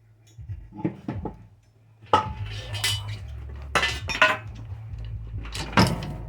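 Steel parts clanking and knocking against each other as they are handled and fitted: about seven sharp metallic clanks with ringing, the loudest in the second half, over a steady low hum.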